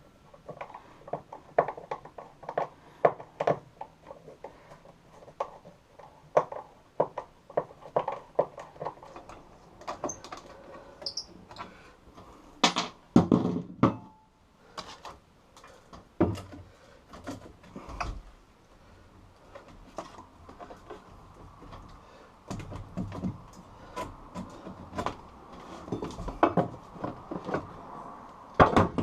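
Irregular knocks, clicks and clatter of tools working on wood, with a few heavier thuds.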